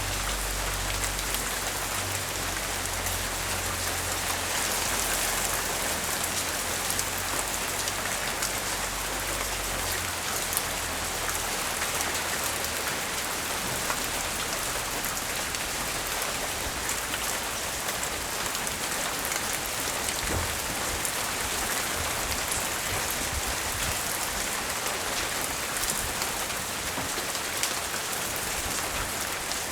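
Light, steady rain from a tropical storm, with scattered drops ticking on nearby surfaces. A low rumble underneath fades out about ten seconds in.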